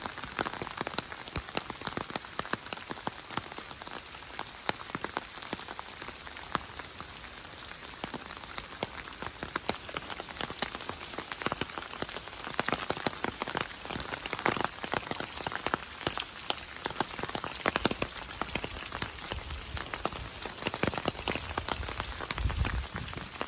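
Rain falling steadily, with many individual drops landing close by as sharp ticks over the even hiss of the shower.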